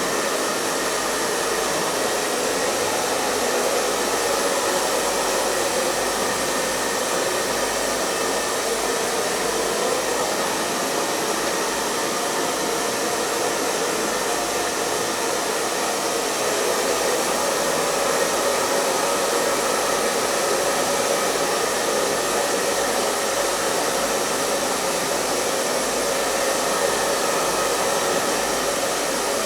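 Hair dryer running continuously at a steady speed: an even rush of blown air with a faint motor whine, unchanging throughout.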